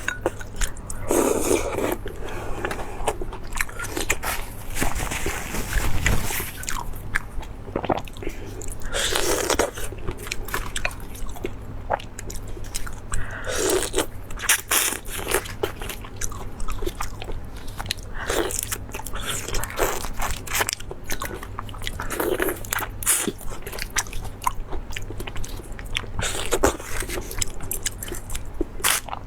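A person biting and chewing crunchy food close to the microphone: dense crackling crunches, with a louder bite every few seconds.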